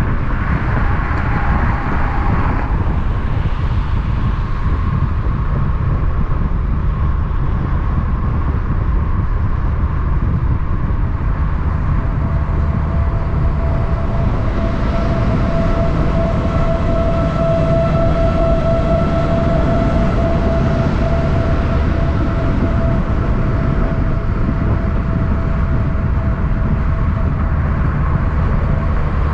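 Heavy vehicle noise: a steady low rumble of trucks on the road, with a whine that swells in the middle and fades toward the end.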